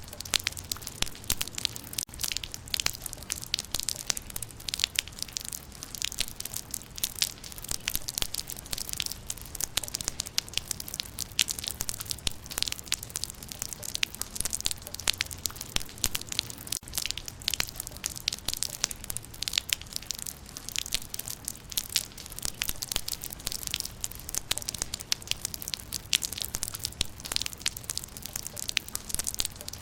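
Raindrops pattering on leaves: a dense, irregular stream of small sharp ticks over a steady light hiss.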